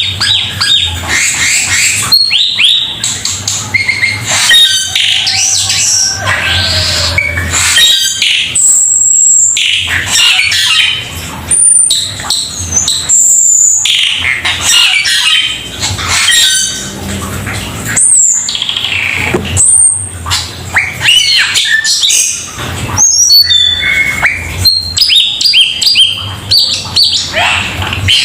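Cucak keling singing non-stop in a loud, varied chatter: quick whistled phrases, sweeping notes and harsher squawky calls follow one another with hardly a break. This is the vigorous 'gacor' song that keepers play to train their birds.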